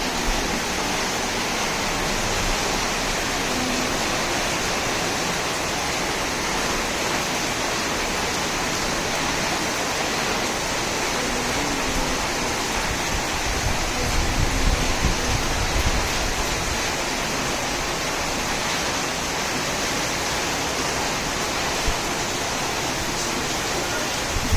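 Heavy rain pouring down in a steady, even hiss of falling water. A few low rumbles come through about fourteen seconds in.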